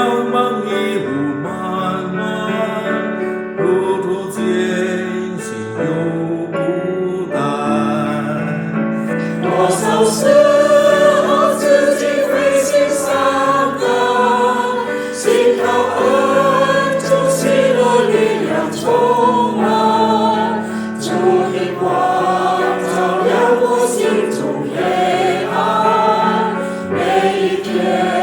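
A virtual church choir singing a Mandarin hymn with accompaniment. The sound is thinner for the first several seconds and grows fuller and brighter from about ten seconds in.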